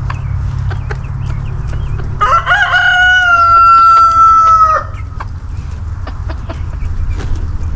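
A rooster crowing once, about two seconds in: one long call of roughly two and a half seconds that rises at the start and then holds with a slight fall before cutting off.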